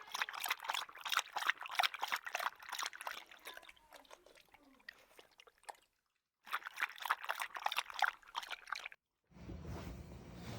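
Dog lapping water from a bowl: rapid, wet, irregular lapping clicks that break off suddenly twice, giving way near the end to a steady low hum.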